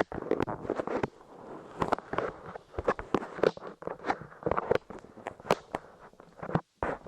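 Light modelling clay squished and pressed against a microphone's ears up close, giving an irregular run of sticky clicks, pops and crackles, with a brief cut to silence near the end.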